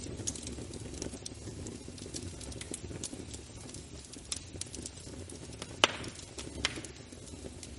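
Wood fire burning in a fireplace: a steady low rumble of flames with scattered small crackles, and two sharp pops less than a second apart about six seconds in.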